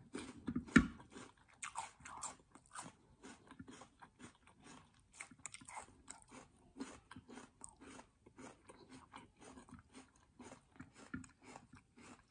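Close-up chewing of crisp peeled water chestnut: a quick, irregular run of small crunches and wet mouth clicks, loudest about a second in.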